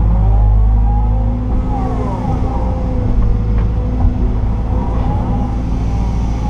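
Liebherr R926 crawler excavator heard from inside its cab: the diesel engine runs with a steady low drone while the hydraulic whine rises and falls over and over as the boom and bucket move under load. A couple of short knocks come about halfway through.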